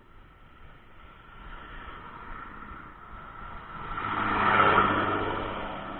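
A motor vehicle passing close by: its engine and road noise swell to a peak a little before the end, then fade away.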